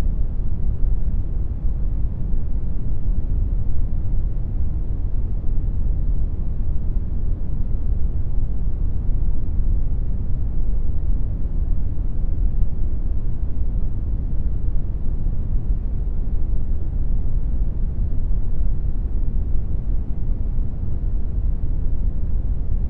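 Synthetic brown noise generated in Audacity: a steady, deep rumbling hiss with most of its energy in the bass, unchanging throughout.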